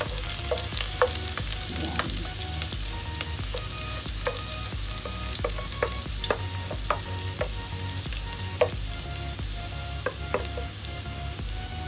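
Chopped garlic sizzling in hot cooking oil in a nonstick pot while a wooden spoon stirs it, the spoon scraping and tapping against the pot many times.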